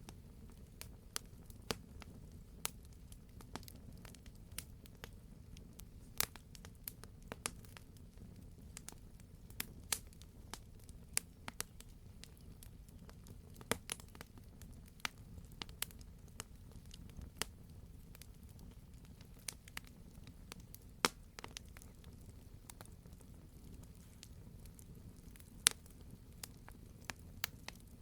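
Wood fire burning in a fireplace: a steady low rumble of the flames with frequent irregular crackles and sharp pops from the burning logs, a few much louder pops standing out toward the end.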